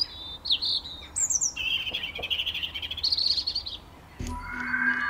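Songbirds chirping and trilling in quick high phrases. About four seconds in, the birdsong breaks off and a steady held music chord begins.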